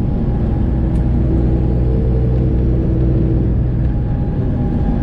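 Detroit Diesel 12.7-litre engine of a semi truck running at road speed, heard as a steady low drone inside the cab. Its tone shifts slightly about four seconds in.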